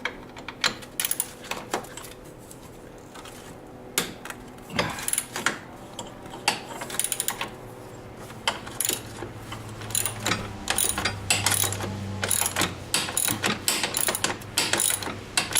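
Socket ratchet wrench clicking as a bolt is worked loose, in short irregular strokes at first and then in quicker runs of clicks from about ten seconds in.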